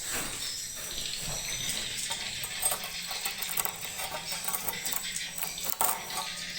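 Edible-nest swiftlets twittering and clicking, a dense run of short high chirps and quick clicks.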